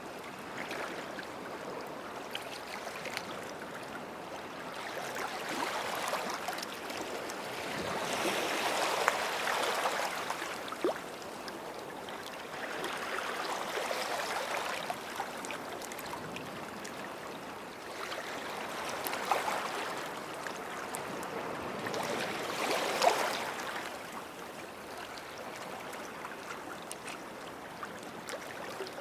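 Small waves washing up a sandy beach and draining back, the surf swelling about five times every four or five seconds with trickling water between.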